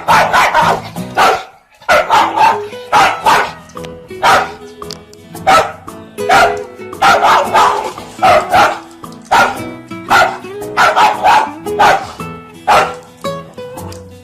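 A dog barking over and over in quick, uneven bursts, with music playing underneath.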